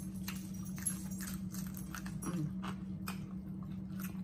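Close-up eating noises: chewing and lip-smacking on fried catfish, a quick run of small wet clicks, over a steady low electrical hum.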